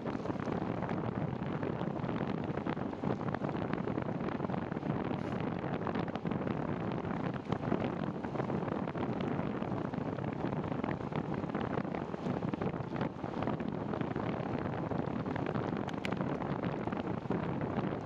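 Wind buffeting the microphone of a moving rider, a steady rushing noise with a few faint clicks.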